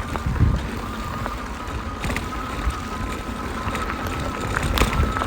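Jasion EB7 e-bike riding on a bumpy trail: a low rumble of tyres and wind, a faint steady whine from the hub motor that rises slightly near the end, and a few knocks from bumps.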